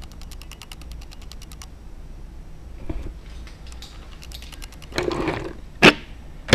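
Handling of small die-cast toy cars and their plastic packaging: a quick run of light clicks, about ten a second, for the first second and a half, then rustling and a sharp clack near the end, the loudest sound.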